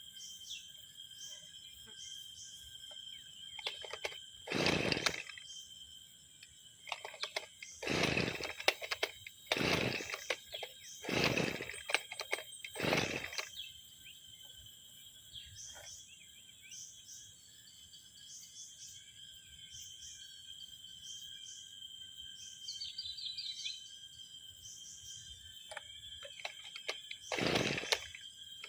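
Two-stroke brushcutter engine being pull-started after six months unused: six short pulls of the recoil starter, most bunched in the first half and one near the end, without the engine catching. A steady high-pitched tone runs underneath.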